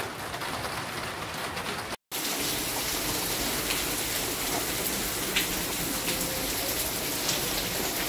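Heavy rain falling steadily, an even hiss with a few scattered drip taps. The sound cuts out briefly about two seconds in and resumes a little louder.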